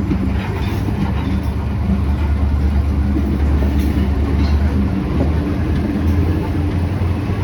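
Passenger train running, a steady loud low rumble.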